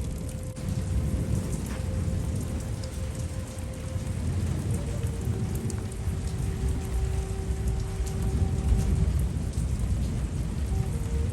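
Steady heavy rain with thunder rumbling low, swelling louder near the end. Soft Native American flute notes are held faintly underneath.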